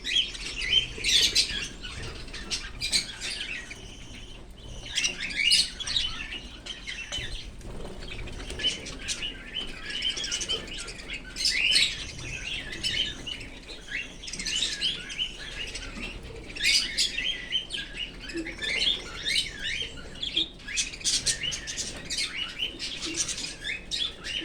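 Cockatiel chirping in quick series of short high notes, in clusters with brief lulls between.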